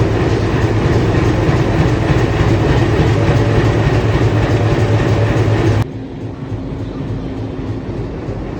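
WDG3A diesel locomotive's ALCO 16-cylinder engine running loudly with a steady low drone. About six seconds in the sound cuts suddenly to a quieter, duller engine rumble with a faint steady hum.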